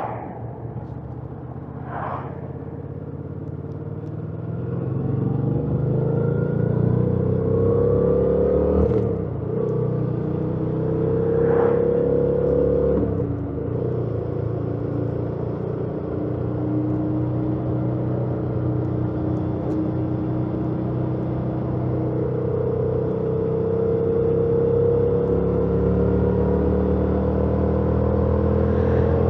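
2018 Yamaha MT-07's parallel-twin engine through its stock exhaust, riding under way: it gets louder and climbs in pitch about five seconds in, dips briefly at gear changes around nine and thirteen seconds, settles into a steady cruise, then climbs again near the end.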